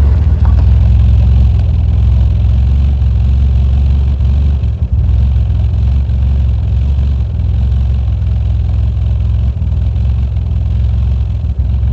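1967 MG Midget's four-cylinder engine ticking over steadily at idle, heard from outside the car close to the microphone.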